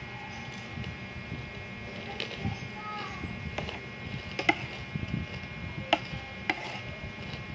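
Eating sounds at a meal of champorado: about five sharp clicks and knocks, spread out and a second or so apart, over a low steady background.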